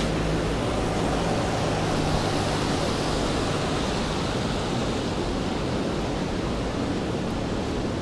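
Steady rainfall on a wet city street: an even hiss. A low hum underneath fades out about three seconds in.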